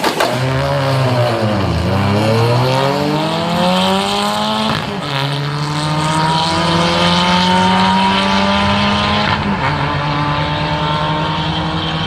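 Turbocharged 1.8T inline-four of a VW Jetta with a GT28 turbo under hard acceleration, the engine pitch climbing through the revs and dropping at each upshift, three shifts in all. The last gear pulls long and slow before the final shift.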